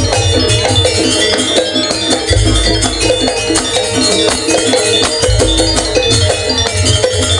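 Loud live Banyuwangi traditional ensemble music, a fast steady rhythm of drums and struck pitched percussion over a heavy bass.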